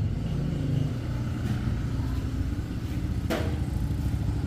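Motorcycle engine running steadily at low revs, with one short click about three seconds in.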